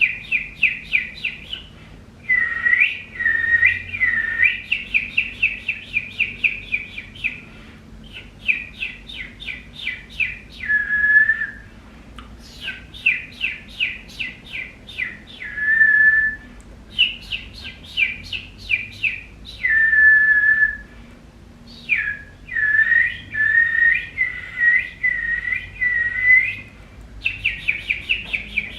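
A person making bird-like 'light language' sounds: runs of quick, high whistled chirps, several a second, broken by short pauses and by a few longer held whistles at a slightly lower pitch.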